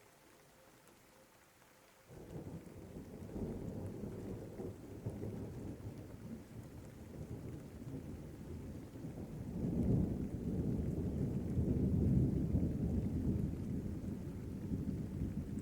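Rain with a long roll of thunder: the low rumble comes in suddenly about two seconds in, swells again past the middle and slowly eases off.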